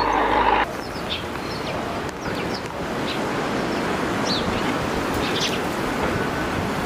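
Songbirds giving short, scattered chirps over a steady rushing background noise. A louder steady hum at the start cuts off suddenly about half a second in.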